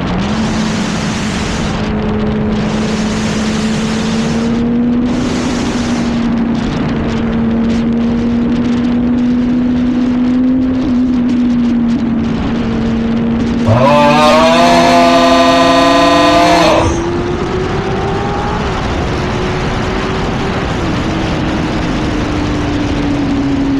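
Yamaha R1 sport bike's inline-four engine running at a steady cruise under heavy wind noise, its pitch drifting slowly up and down. About fourteen seconds in it climbs sharply into a loud, high-revving pull that lasts about three seconds, then drops back to cruising.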